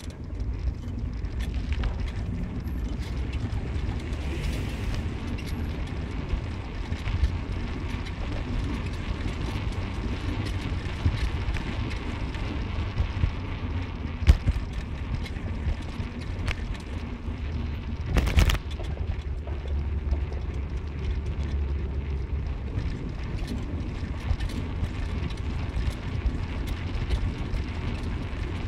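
A car on the move: a steady low rumble of road and engine noise with wind noise over it. It has a sharp knock about halfway through and a louder thump a few seconds later.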